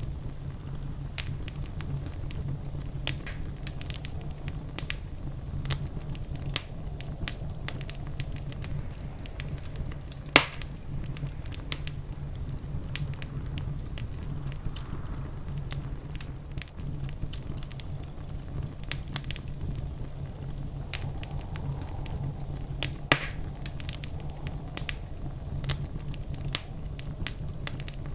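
Wood fire crackling in a fireplace: a steady run of small pops and snaps over a low rumble. A sharp, louder pop comes about ten seconds in and another about thirteen seconds later.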